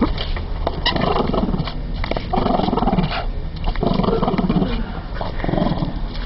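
Boston Terrier growling in four rattling bursts with short pauses between, a motor-like growl likened to a lawn mower starting up.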